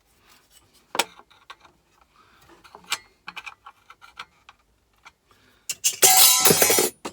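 Metal hand tools clinking and knocking against each other as they are handled and sorted through, with a loud clatter of metal on metal near the end.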